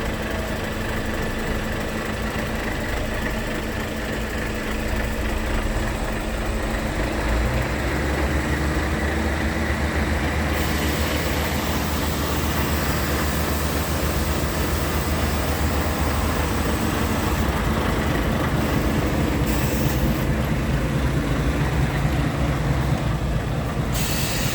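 Scania R truck tractor's diesel engine running, its low rumble growing stronger about 7 seconds in, with a hiss joining a few seconds later.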